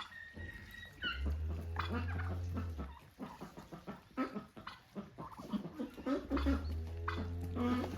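Domestic animal calls, short pitched cries and chirps coming one after another. A low hum comes in twice, for a second or two each time.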